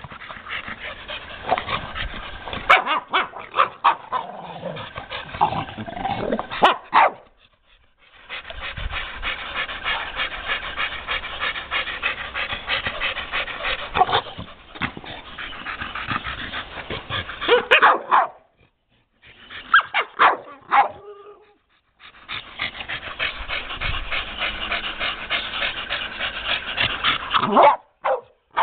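Staffordshire bull terriers growling in long stretches during rough play over a motorcycle tyre, with occasional barks.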